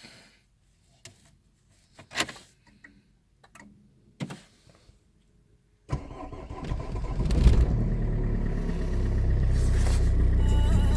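A few faint clicks, then about six seconds in the Renault Megane 2's 1.9 dCi diesel engine starts from cold. It flares up briefly, then settles into a steady idle.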